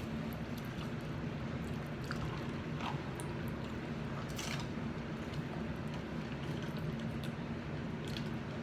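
Chewing, with soft wet smacks and squishes, of a mouthful of Double Whopper with cheese over a steady low hum.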